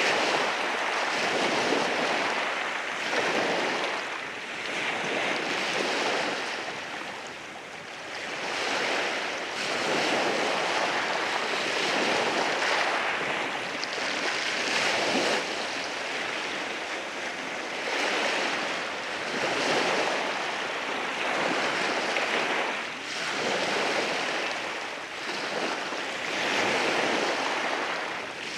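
Waves washing in over rocks on a rocky shore, a continuous rush of surf that swells and ebbs every couple of seconds.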